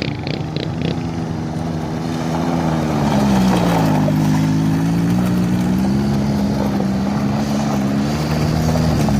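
Motorcycle engine running on the move, its pitch dropping about three seconds in and then holding steady, over a steady rushing noise.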